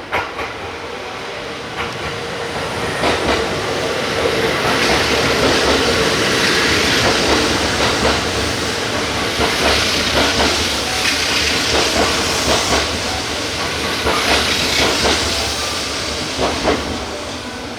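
Kintetsu electric local train pulling out past the platform: running noise and wheel clatter over the rail joints build up, stay loud for several seconds, then ease off near the end.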